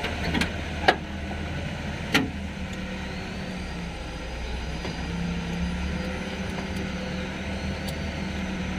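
A steady low mechanical hum, like a running engine, with two sharp metallic clinks, about one and two seconds in, from tools being handled on the engine.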